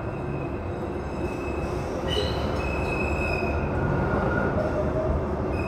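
A train running with a steady rumble, with thin high-pitched wheel squeal from the rails, strongest about two seconds in.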